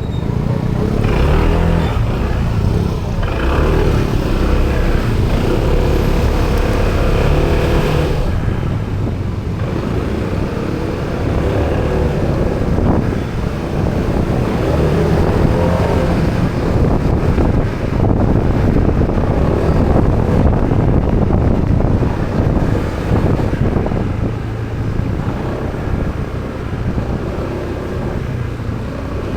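Motorbike engine running on the move, its pitch rising and falling as the speed changes.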